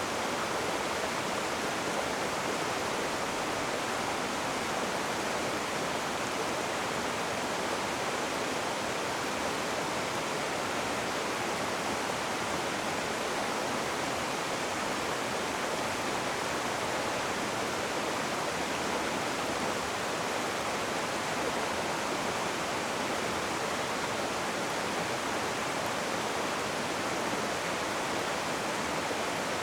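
Rushing water, a river or waterfall, making a steady, even rush with no breaks or distinct splashes.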